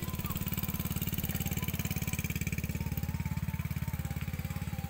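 A small engine running steadily at idle, with a rapid, even low pulse.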